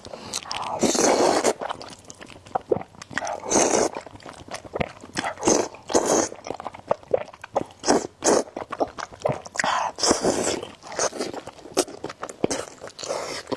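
Close-miked eating of spicy noodles: several long slurps, with short wet chewing and mouth clicks in between.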